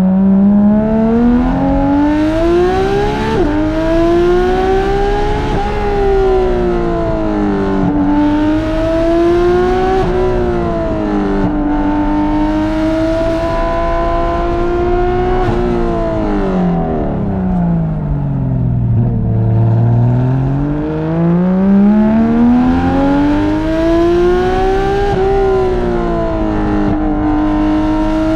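Porsche 991.2 GT3 RS flat-six engine with Dundon street headers and Crack Pipe exhaust, driven hard: its pitch climbs and drops again and again through the gears, falls to low revs about two-thirds through, then climbs back up.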